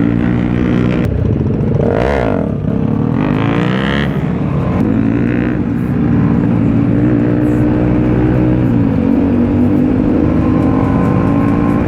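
Kawasaki ZX-10R inline-four engine on its stock exhaust, heard on board while riding. Its revs rise and fall a couple of times in the first few seconds, then it runs at a near-steady pitch.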